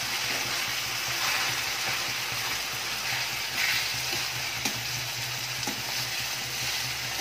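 Brinjal, tomato and potato sizzling in a kadai while a metal spatula presses and stirs them, with a few light scrapes of the spatula against the pan. The vegetables are nearly cooked and are being mashed down into bharta.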